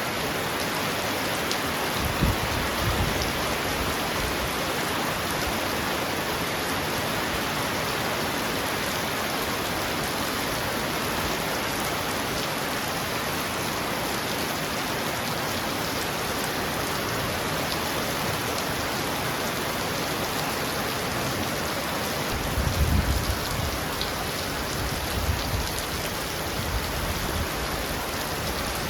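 Heavy rain falling steadily on a roof, an even hiss, with low rumbles of thunder about two seconds in and again near the end.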